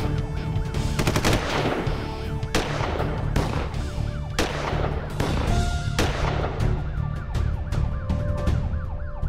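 Pistol gunshots fired at irregular intervals, some in quick pairs, in a police shootout, over a police siren wailing in fast rising-and-falling sweeps.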